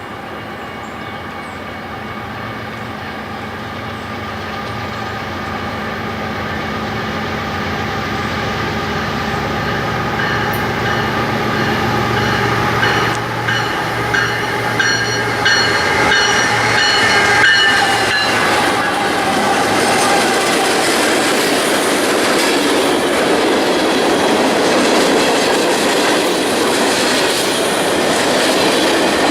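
A diesel-hauled train approaching and passing close by. Its engine hum and steady whining tones grow louder, drop in pitch as the locomotive goes by about 18 seconds in, then give way to a steady rumble and clatter of wheels on rail as the cars roll past.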